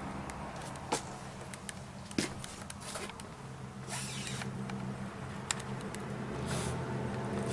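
Camper slide-out mechanism running as the room retracts: a steady motor hum with creaks and scattered clicks.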